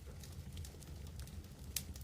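Wood campfire crackling: irregular small snaps with one louder pop near the end, over a steady low rumble.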